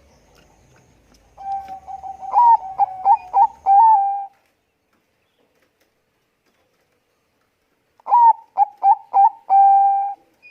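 Zebra dove of the Bangkok strain (perkutut bangkok) cooing in two bouts about four seconds apart. Each bout is a run of short coos that flick up and drop back, ending in a longer held coo.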